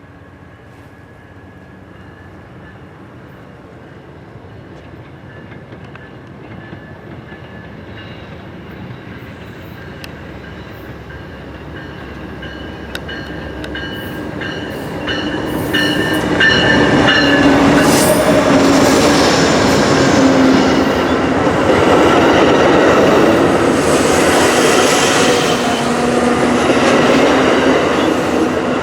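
A train approaching and growing steadily louder for about fifteen seconds, then running past loud with the rumble and clatter of its wheels on the rails. Thin high steady tones sound faintly in the first half.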